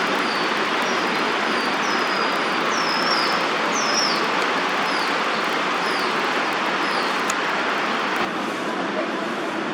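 Steady city traffic noise with a bird repeating short high chirps about twice a second, the chirps stopping near the end.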